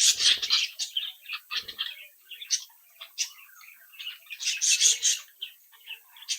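A group of budgerigars chirping and warbling with many overlapping rapid calls, busiest at the start and again about four and a half seconds in.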